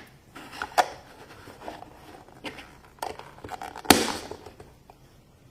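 Plastic toy packaging being handled and opened by hand: crinkling and crackling with a few sharp clicks and snaps, the loudest about four seconds in.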